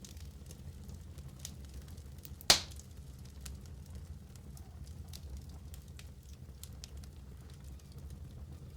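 Fire burning in a fireplace, crackling with scattered small snaps over a steady low rumble. One sharp, loud pop comes about two and a half seconds in.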